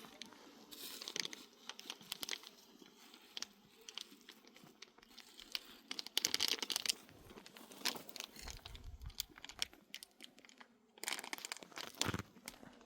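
Irregular rustling and crackling, with louder clusters of crackles about six seconds in and again about eleven seconds in.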